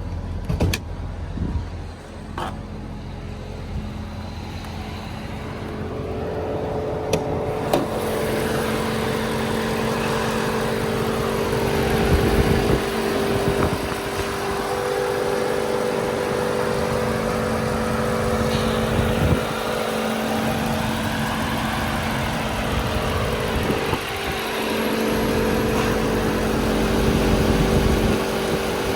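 Mercedes-Benz E63 AMG's 6.2-litre V8 engine and exhaust running, with a few short clicks in the first several seconds. About six seconds in the engine note becomes steady and louder and holds that way.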